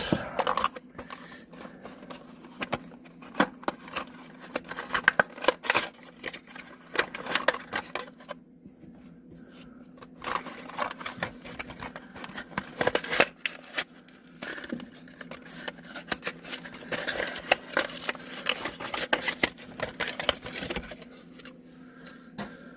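Hands unpacking small plastic toy-car parts from their packaging: crinkling and rustling with many sharp clicks and taps, and a quieter pause about a third of the way in.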